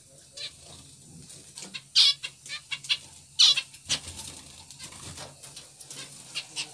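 Small cage birds chirping in short, sharp calls, the loudest about two seconds and three and a half seconds in, with scattered clicks and wing flutters.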